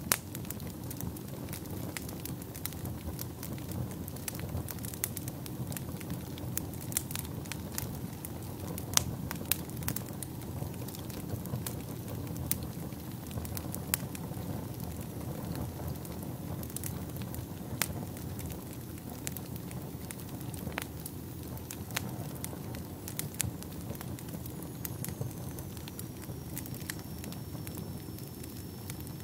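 Wood fire burning in a fireplace: a steady low rush of flames with irregular sharp crackles and pops throughout. A faint high, thin whistle comes in during the last few seconds.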